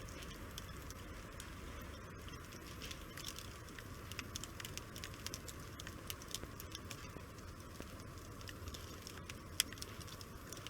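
Wood fire crackling, with frequent small sharp pops over a low steady hiss of burning and one louder pop near the end.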